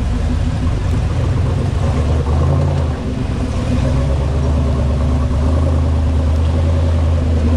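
Off-road 4x4's engine running steadily at low speed while crawling along a trail, with a brief drop in level about three seconds in.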